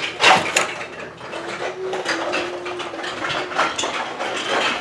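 Irregular small clicks and clatter of die-cast toy cars and track pieces being handled between timed runs, with a louder cluster of knocks just after the start.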